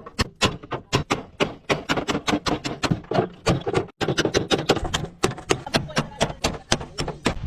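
Hammer blows striking in quick succession, about four a second, with a brief gap about four seconds in.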